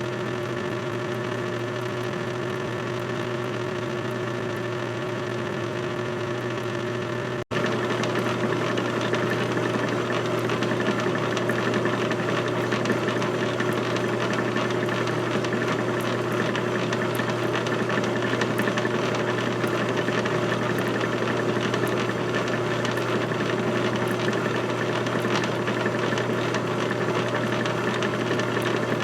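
Small electric drill motor running steadily, with faint clicking from the bit. The sound drops out for an instant about seven seconds in, then carries on louder.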